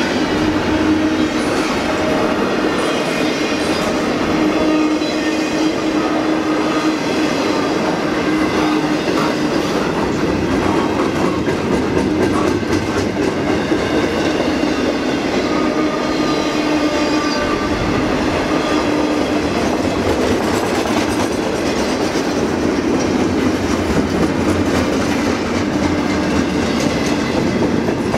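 Cars of a freight train rolling past on the rails: a steady, loud wheel-on-rail clatter with thin squealing tones that come and go.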